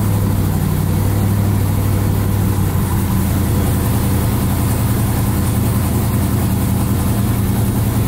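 Twin-turbo LS V8 engine idling just after starting, its fast idle settling from about 1,600 to 1,250 rpm, heard from inside the car's cabin. The note is steady and drops slightly in pitch about three seconds in.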